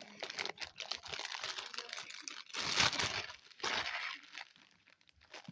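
Slime being handled and pulled from a plastic bag: crinkling and sticky crackling, loudest a little under three seconds in.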